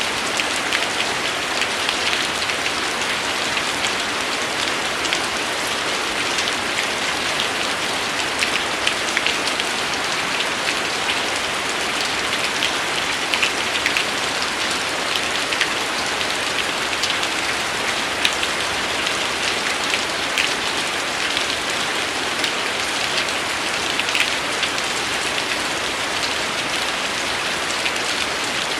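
Steady rain falling on a surface, a constant hiss with many individual drops ticking sharply through it.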